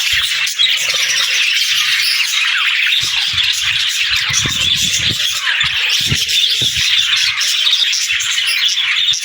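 Budgies (budgerigars) warbling and chattering nonstop, a dense stream of quick chirps, squawks and short trills. A few soft low knocks come through about halfway through.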